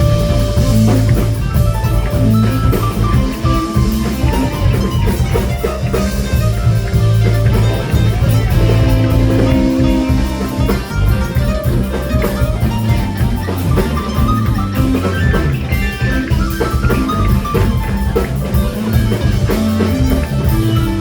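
A live rock band playing an instrumental passage: electric guitar picking out sustained melody notes over bass and a steady drum-kit beat.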